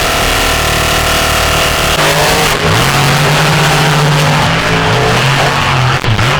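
An off-road vehicle's engine running hard at steady high revs, then, about two seconds in, revving up and down over and over.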